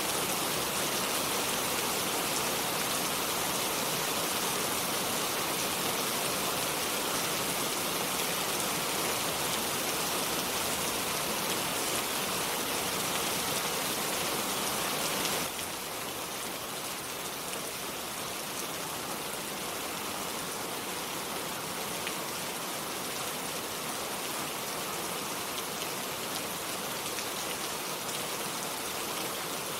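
Steady rain without thunder, falling on foliage and surfaces, with a dense patter of drops. About halfway through it drops a little in level and stays steady.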